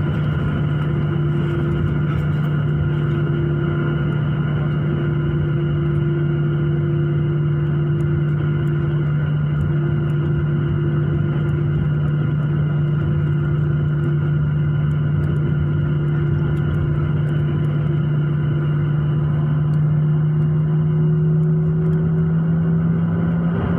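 Airliner jet engines heard from inside the passenger cabin: a loud, steady drone with a steady hum, rising slightly in pitch near the end.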